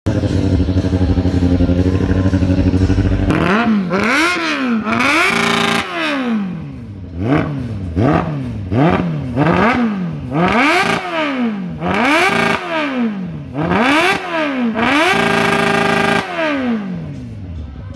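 A motor vehicle engine with a loud exhaust idles for about three seconds, then is revved over and over in quick blips. The pitch rises and falls about once a second, and the revs are held high briefly twice, about five seconds in and again near the end, before dropping back.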